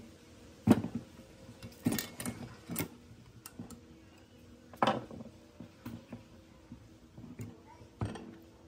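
Metal parts of a worm-drive circular saw being handled by hand: separate knocks and clinks, about six in all, the loudest about a second in.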